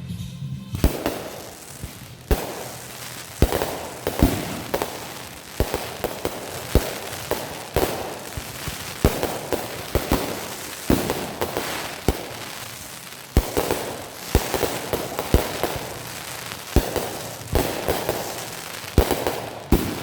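Backyard fireworks going off in rapid succession: sharp bangs every half second to second, with crackling between them.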